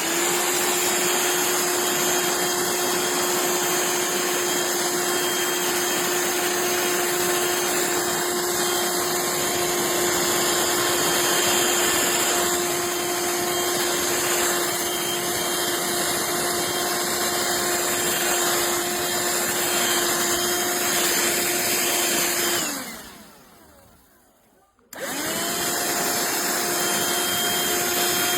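Black+Decker Dustbuster cordless handheld vacuum running at a steady pitch: a motor whine over the rush of air. It is switched off about 23 seconds in, its pitch falling as it spins down. It is switched back on about two seconds later and runs steadily again.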